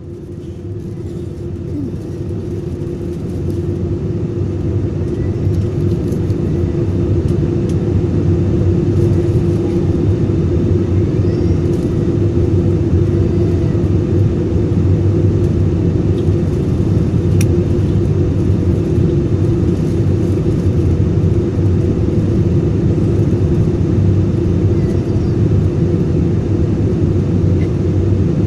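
Airbus A320-200 in flight: a steady engine and airflow drone with a constant hum. It fades up over the first few seconds and then holds level.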